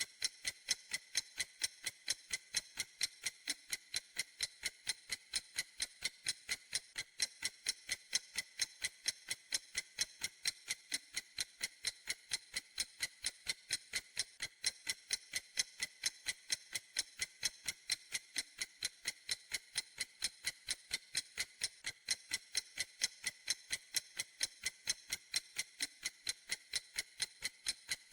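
A clock ticking steadily: a fast, even run of crisp, high ticks that never changes pace.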